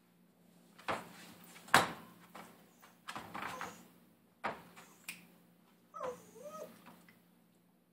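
A puppy waiting in its crate for food: several sharp knocks and rattles, the loudest a little under two seconds in, then a short wavering whine about six seconds in.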